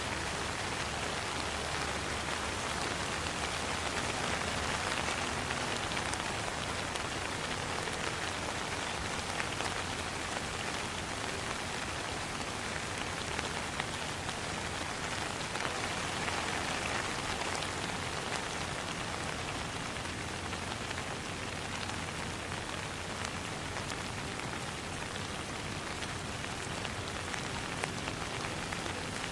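Steady rain falling: an even hiss dotted with scattered individual drop ticks.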